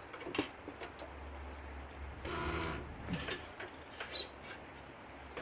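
Priming a 1916 Woodpecker hit-and-miss engine with a finger held over the mixer intake to draw fuel up: a few sharp mechanical clicks and, a couple of seconds in, a short sucking hiss at the mixer.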